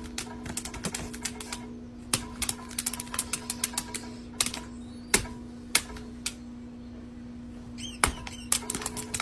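Sharp clicks and taps in irregular quick clusters over a steady low hum, with a brief squeaky chirp about eight seconds in.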